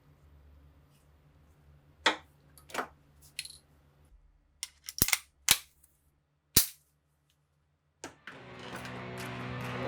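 Sharp metallic clicks from handling rifle parts: a few light clicks, then three loud snaps. Music fades in about eight seconds in.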